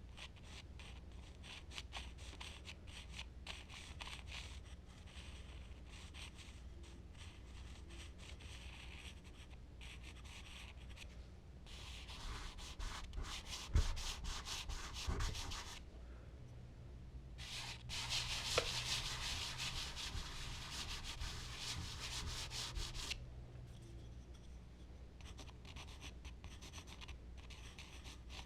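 Charcoal and blending tools rubbing and stroking on smooth Bristol paper: many short scratchy strokes, with two longer stretches of louder, continuous rubbing in the middle, and a knock or two during the first.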